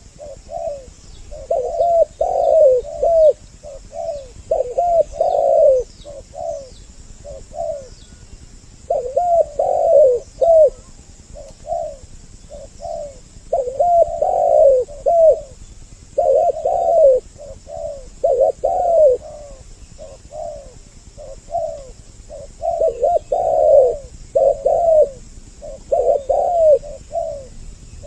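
Spotted doves cooing, two birds calling at once so their repeated coo phrases overlap, with short pauses between bouts. It is a lure recording made to draw doves in.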